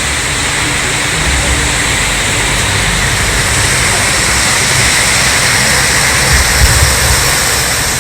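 Rushing water of a mountain river: a loud, steady rush.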